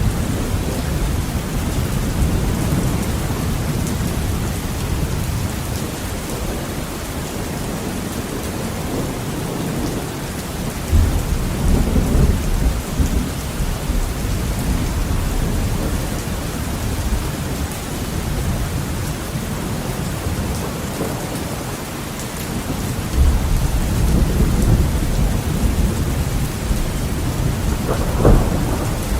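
Heavy rain pattering steadily on a window, with thunder rolling low in the background. The rumbles swell several times, and a sharper crack of thunder comes near the end.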